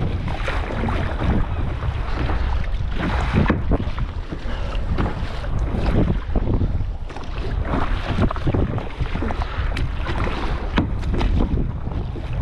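Kayak paddle strokes splashing in the sea, with wind buffeting the microphone in a low rumble.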